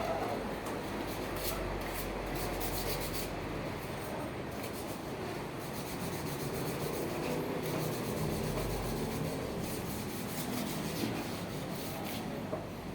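Continuous rough rubbing and scrubbing, with a few small clicks, as truck valve rocker-arm parts are cleaned by hand.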